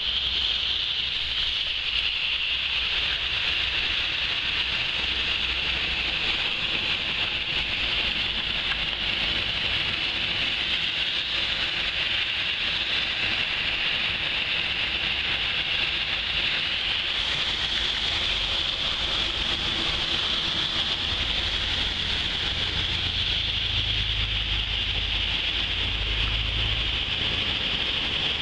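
Heavy rain pouring onto a waterlogged street, a steady hiss. A low rumble of traffic driving through the wet road swells for several seconds near the end.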